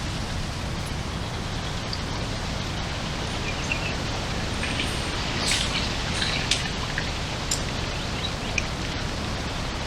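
Steady wind noise buffeting the microphone, an even hiss and rumble, with a few faint short high chirps about halfway through.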